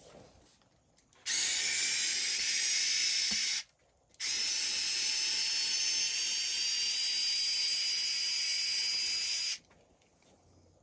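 Small cordless electric screwdriver or drill whirring in two steady runs, about two seconds and then about five seconds, backing out screws.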